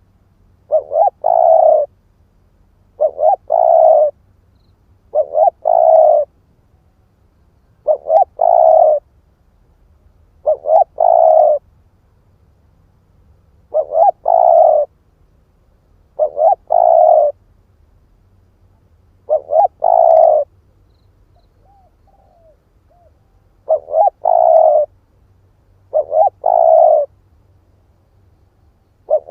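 Spotted dove cooing: a series of short coo phrases repeated every two to three seconds, each a quick pair of notes running straight into a longer coo.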